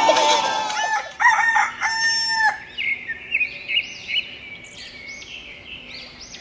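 A rooster crowing once, about a second in: a held call that drops away at the end. Small birds then chirp over and over.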